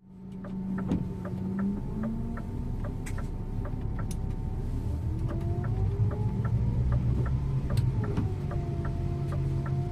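Scania InterLink bus's diesel engine heard from the driver's seat, speeding up for several seconds and then dropping in pitch about eight seconds in, as at an automatic gear change. The turn-signal indicator clicks steadily throughout, about two to three clicks a second.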